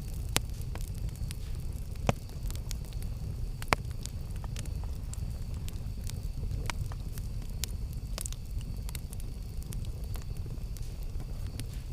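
Campfire burning: a steady low rumble with frequent sharp crackles and pops, a few of them louder, about half a second, two seconds and nearly four seconds in.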